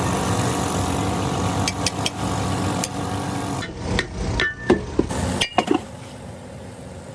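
An engine running steadily with a few clicks, which gives way about three and a half seconds in to a handful of sharp, separate knocks like hammer blows on metal, and then a quieter background.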